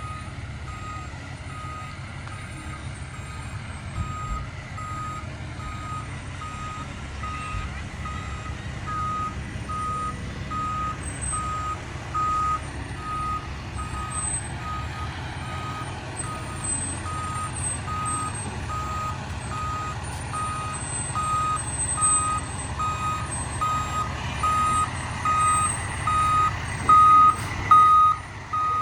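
A truck's back-up alarm beeping steadily, about one and a half beeps a second, over the rumble of its running engine as it reverses. The beeps grow louder toward the end as the vehicle backs closer.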